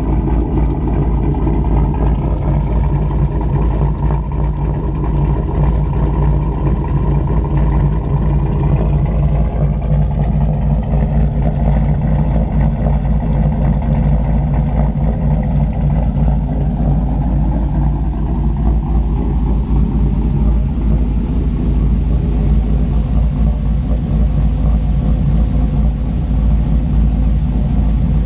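Turbocharged 6.0-litre V8 in a 2004 GMC 2500HD, fitted with a Texas Speed 224/228 camshaft on a 112 lobe separation angle, idling steadily with the choppy lope of the aggressive cam.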